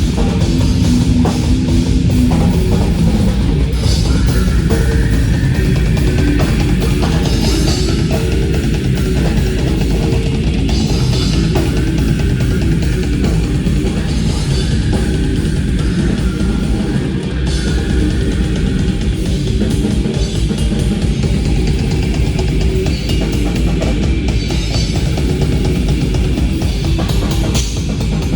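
Metal band playing live: heavily distorted guitars over fast, dense drumming.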